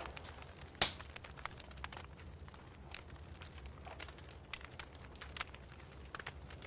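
Wood fire in a fireplace crackling with scattered small pops and snaps, one sharp loud pop about a second in, over a faint low hum.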